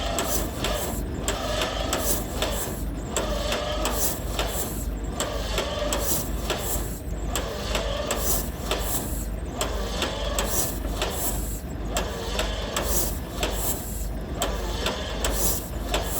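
John Deere A's two-cylinder engine being cranked over on the starter with the fuel shut off, to clear a flooded carburetor. It turns with a rhythmic, uneven chug and whine and does not fire, over a steady low hum.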